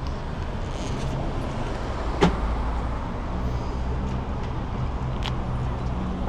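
Street traffic: a motor vehicle engine running with a steady low rumble, with two short sharp clicks about two and five seconds in.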